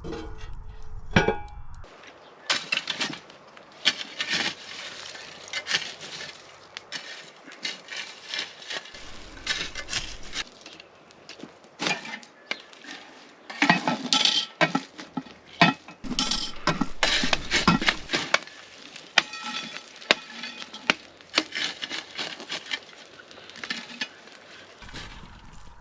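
Metal cookware and utensils clinking and clanking, with many short knocks and clinks at an uneven pace, busiest about two-thirds of the way through.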